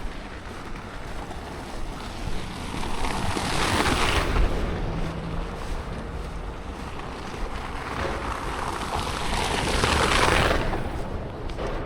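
Two vehicles passing one after the other on a snow-covered street, each a rising and fading rush of tyres through slush, the first about four seconds in and the second near ten seconds. A steady low rumble of wind on the microphone runs underneath.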